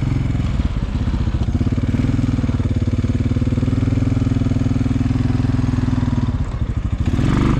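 A vehicle engine running near idle with an even pulsing beat, its pitch lifting slightly about two seconds in and settling back near the end.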